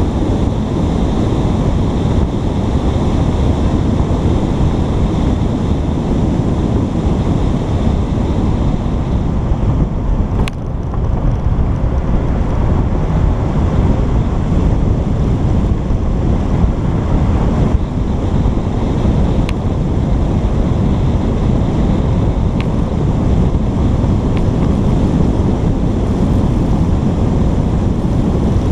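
Steady, loud wind rumble on a GoPro's microphone, with a few faint clicks along the way.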